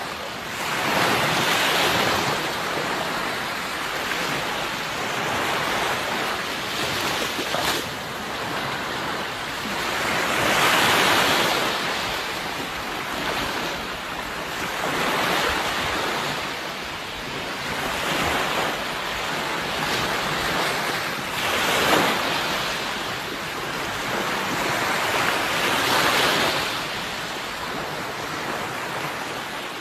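Sea waves breaking and washing on a shore in a steady wash that swells with each wave every few seconds, with some wind noise.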